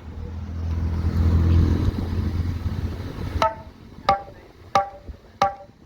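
Music from a car sound system under test: a held deep bass note for about three seconds, then a sparse percussion beat of sharp knocking hits about one and a half times a second.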